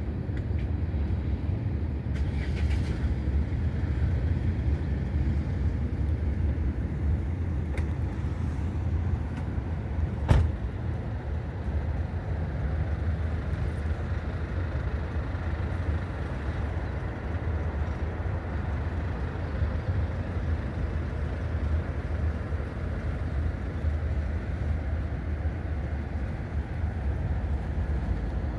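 Steady low rumble of outdoor background noise, with one sharp click about ten seconds in.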